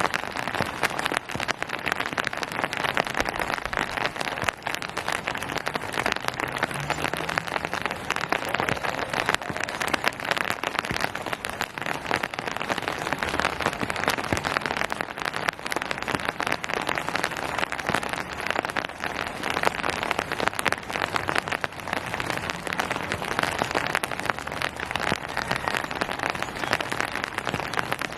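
Steady rain falling on surfaces, a dense even patter of many small drop impacts.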